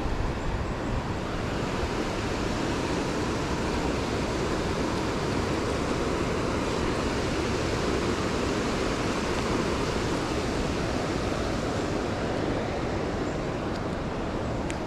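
Steady rushing noise of wind and water with no distinct events, typical of wind across the microphone on open water.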